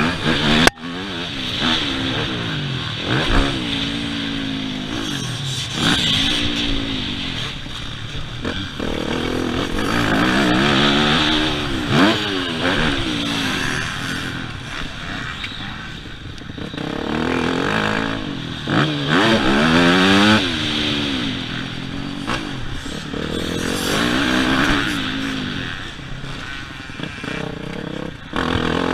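Yamaha YZ250F four-stroke single-cylinder motocross engine being ridden hard, its pitch rising and falling over and over as the throttle is opened and closed through corners and straights.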